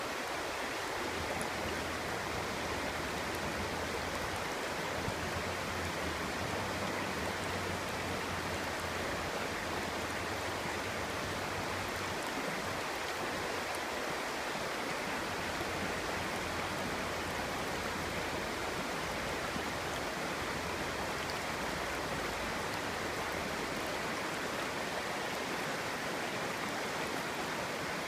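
Clear stream flowing steadily over stones, a continuous burbling rush of water.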